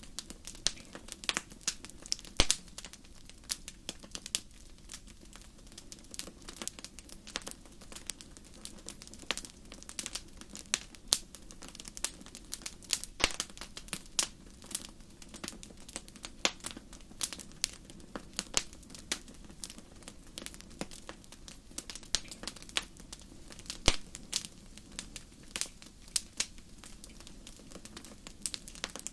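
Wood fire crackling in a fireplace: irregular sharp pops and snaps, several a second, with a few louder pops, over a faint steady background noise.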